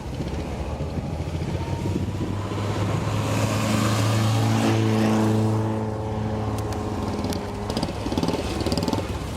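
A car engine passes under load, its steady note growing louder to a peak about four to five seconds in, then fading away.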